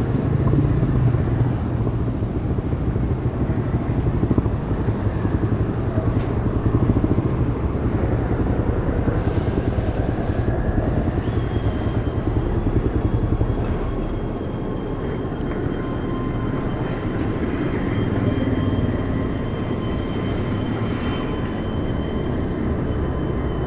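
Demak DTM 150 motorcycle engine running through its stock exhaust while riding, a steady drone that eases off slightly a little past halfway, mixed with road and wind noise.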